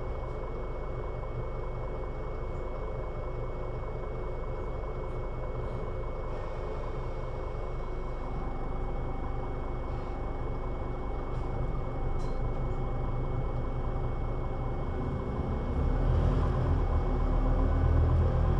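Scania Citywide articulated city bus engine running steadily. From about halfway through, the engine note rises and grows louder in steps as it takes up load, loudest near the end.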